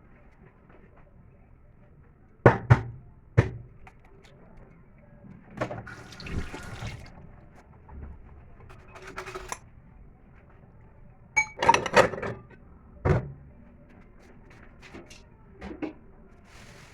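Kitchen work sounds: scattered sharp knocks and clatter of dishes and utensils, with a few short stretches of splashing or sloshing liquid in between.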